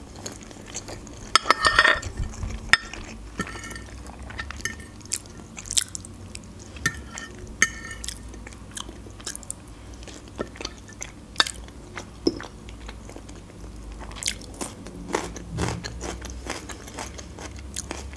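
Close-miked chewing of soft khinkal dough and minced meat, with repeated wet mouth clicks and smacks. A fork clinks and scrapes on the plate, loudest about one and a half seconds in.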